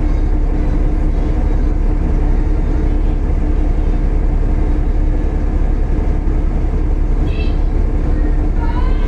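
Volvo B7TL double-decker bus's six-cylinder diesel engine running steadily: a heavy low rumble with a constant whining hum over it, the hoover-like sound that earns this bus its nickname.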